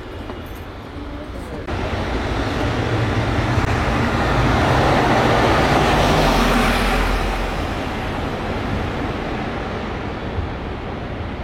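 Alicante tram running on its rails. The noise jumps up suddenly a couple of seconds in, is loudest around the middle, then eases off.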